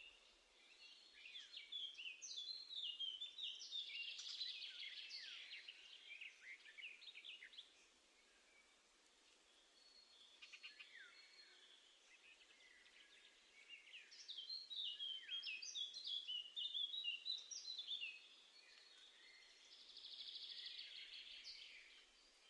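Small garden songbirds singing and calling, faint: two long stretches of quick, high chirping notes with quieter scattered chirps between, and a fast trill near the end.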